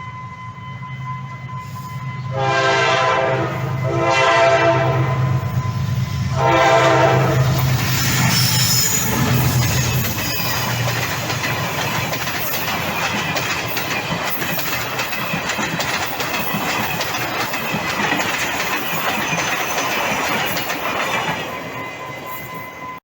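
A train sounds its horn in long blasts about two seconds in and again about six seconds in, over a low steady engine rumble. It then passes with a continuous rush and clatter of wheels on rails, which fades near the end.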